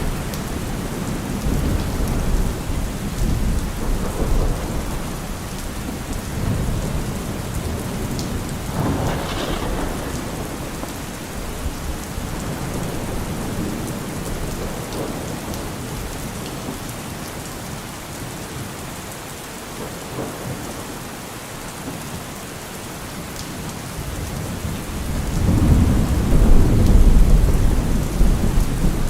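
Steady rain falling, with thunder rumbling low in the background. A louder roll of thunder builds and fades near the end.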